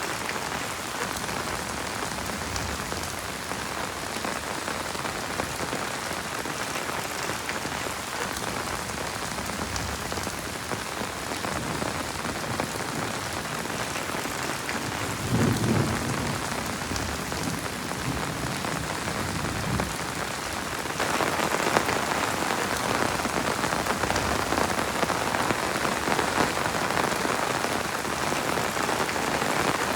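Heavy rain falling steadily, with a brief low rumble about halfway through. About two-thirds of the way in the rain grows louder and brighter.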